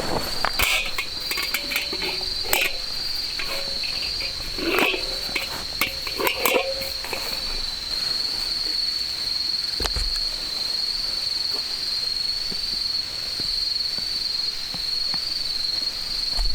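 Crickets or other insects chirring in a steady, high, slightly wavering chorus. Scattered clicks and knocks come in the first half.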